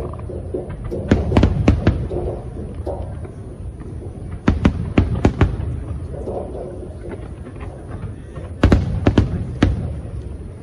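Fireworks bursting overhead: three clusters of sharp bangs, a few seconds apart, over a continuous low rumble.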